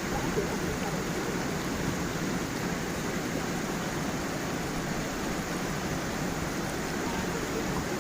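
Gentle stream with a small waterfall, water flowing and splashing over stones in a steady, unbroken babble.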